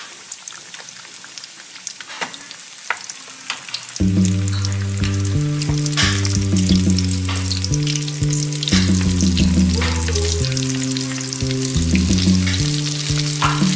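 Breaded chicken drumsticks frying in hot oil in a skillet: a steady sizzle full of small crackles and pops. About four seconds in, background music with low held notes that change every second or so comes in over the frying and is the loudest sound from then on.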